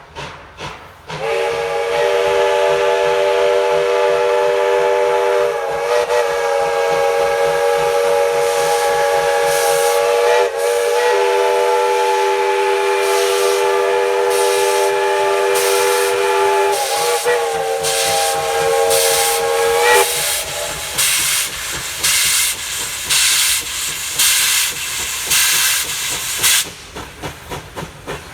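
Steam locomotive's chime whistle sounding one long chord of several notes for nearly twenty seconds, wavering briefly three times as the valve is worked. It is followed by the locomotive's exhaust chuffing with hissing steam at about two beats a second, which turns softer near the end.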